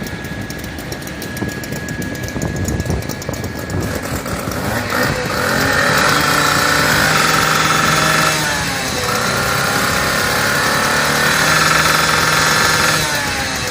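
Fire engine siren sounding two long wails, each rising, holding steady and falling away, over the rumble of the truck's engine running.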